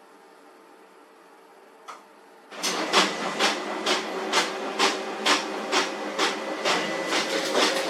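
HP LaserJet 4345 laser printer starting up after a faint idle hum and one click, then running loud with a sharp knock about twice a second, the noise of a worn fuser drive swing plate assembly.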